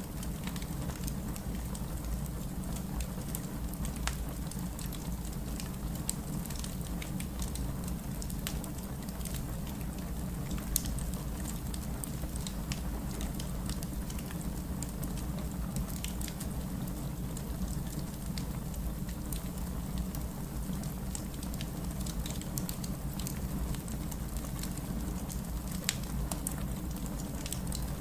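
Wood fire burning in a fireplace: a steady low rumble of flames with continual small crackles and an occasional louder pop.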